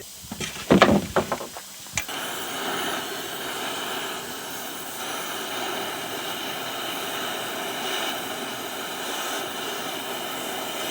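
Oxy-acetylene cutting torch being lit: a sharp pop about two seconds in, then the flame hissing steadily. Right after, it is said to be 'trying to blow me out', blowing back on its user.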